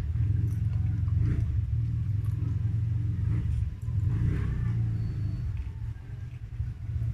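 Close-miked chewing of a soft chocolate snack cake, heard mostly as a steady low rumble with faint mouth clicks, dipping briefly a little past halfway.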